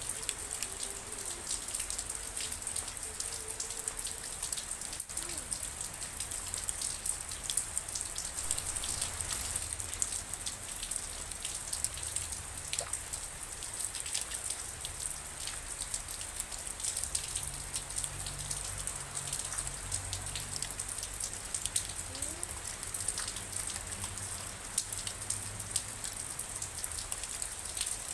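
Steady rain falling, with many separate drops pattering on a surface over an even hiss.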